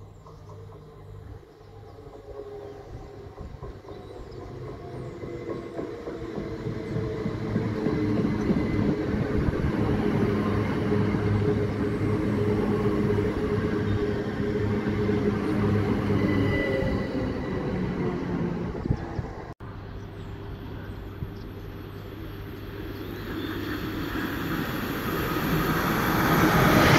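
A green Great Western Railway multiple-unit passenger train drawing in along the platform, a steady hum with several held tones that grows louder over the first few seconds. About two-thirds of the way through the sound cuts suddenly to a Class 800-series Intercity Express Train approaching, growing steadily louder.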